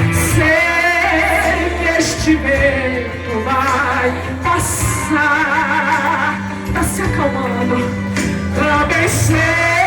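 Live gospel worship song: a woman singing with vibrato over a band with bass and cymbals.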